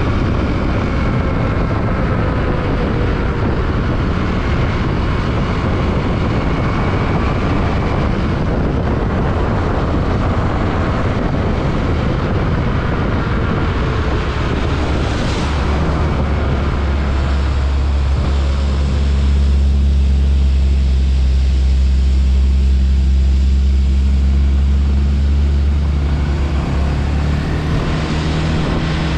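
Yamaha WR155 motorcycle engine heard while riding, mixed with heavy wind rush. The engine note rises and falls for the first several seconds. From about halfway it settles into a steady low drone and the rushing noise eases.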